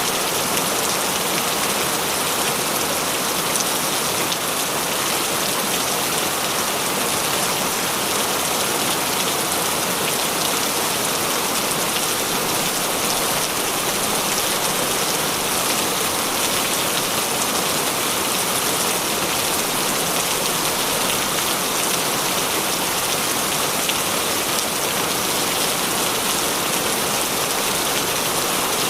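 Heavy rain falling steadily, a dense even hiss with fine drop patter throughout.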